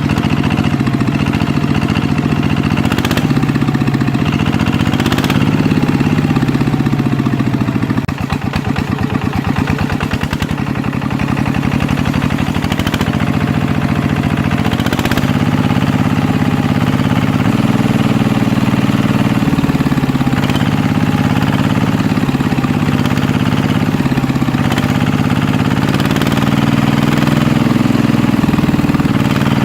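An engine idling steadily, with a few sharp knocks over it; about eight seconds in, the running changes to a rapid chugging for a few seconds before settling back to idle.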